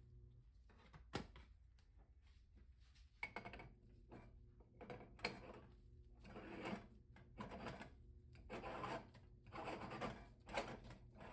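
Kitchen handling sounds: a sharp click about a second in, then a run of short scraping, rubbing strokes, roughly one a second.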